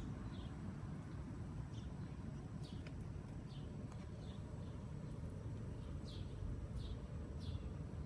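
Small birds chirping: short, falling chirps repeated irregularly every half second to a second, over a low steady background rumble.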